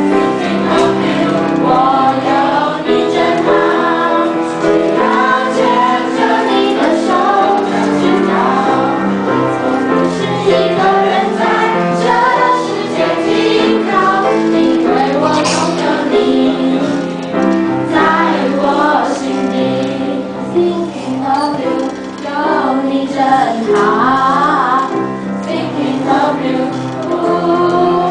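Student choir singing a Mandarin song in unison, over sustained instrumental accompaniment.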